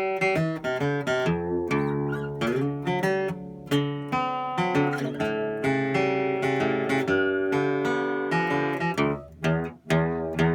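Taylor 320e Baritone acoustic guitar played solo, a run of plucked notes and strummed chords in a low register, with a brief pause near the end.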